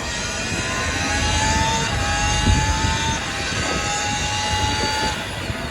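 Vehicle engine running with a high whine that rises slightly in pitch several times over a low rumble.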